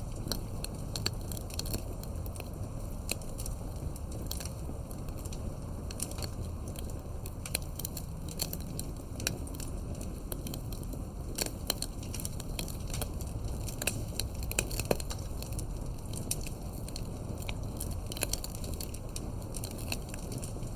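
Campfire logs burning, crackling with many irregular sharp pops and snaps over a steady low rumble.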